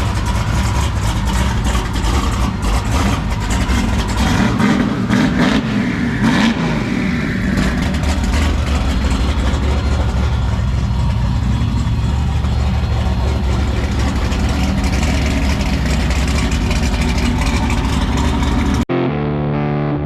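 Car engine running loud, its pitch rising and falling a few seconds in, then holding steady. Near the end it cuts off suddenly to distorted electric guitar music.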